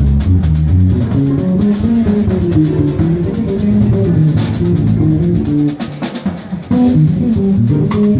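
Bass playing a quick, busy line of notes over a drum kit, with a brief drop in level about six seconds in before the band comes back in.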